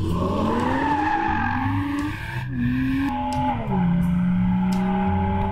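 BMW M240i's turbocharged 3.0-litre straight-six revving hard, its pitch climbing and dropping several times in quick succession before settling to a steady lower note about two thirds in. Tyres squeal in a slide through the first two seconds.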